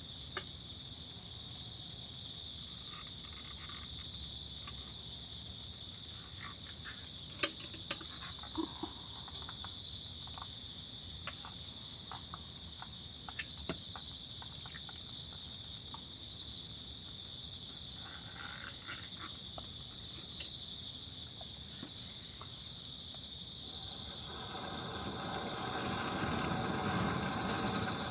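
Insects chirping steadily, a constant high trill with pulsed trains of chirps repeating every second or two, over scattered small clicks. Near the end a louder rushing noise swells in underneath.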